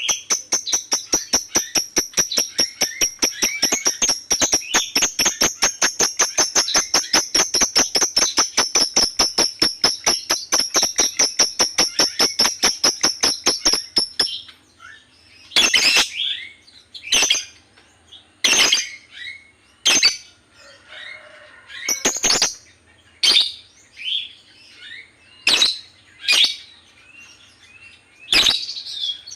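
Lovebird singing: a long, rapid chattering trill of evenly spaced pulses that stops abruptly about halfway through, followed by single sharp chirps every second or two.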